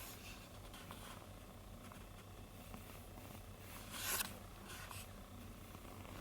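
Faint handling noises: a few light clicks and one short rasping rustle about four seconds in, over a low steady hum.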